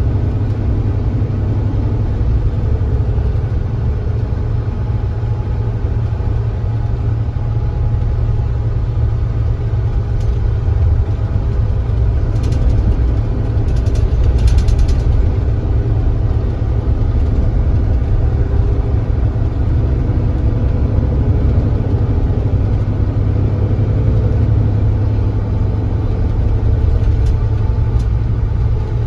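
Kia Granbird Sunshine coach's engine running steadily under way, a deep continuous drone, swelling slightly about halfway through, with a few faint brief rattles.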